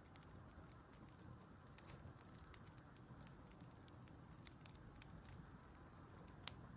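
Faint crackling of a wood fire: irregular small pops and snaps over a low soft rush, with one sharper pop near the end.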